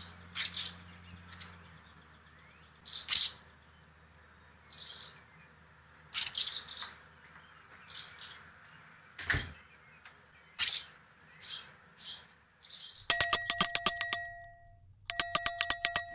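Barn swallows calling, short high chirps coming every second or so, then two loud, rapid rattling bursts near the end.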